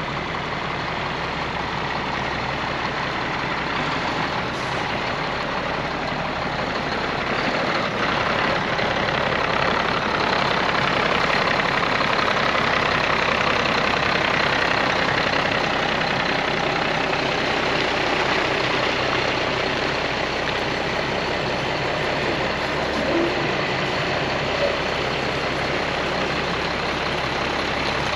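Heavy diesel truck running steadily, a dense, even noise that swells slightly in the middle.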